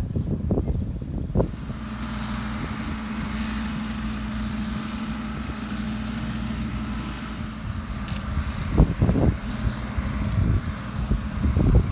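A vehicle running steadily with a constant low hum, with a few knocks and thumps about nine seconds in and near the end.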